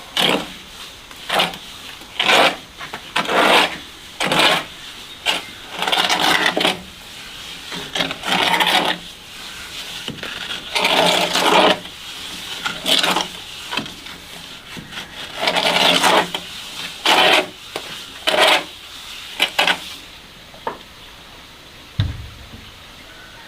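A series of rough scraping strokes at an uneven pace, each lasting up to about a second. They stop a few seconds before the end, and a single low thump follows.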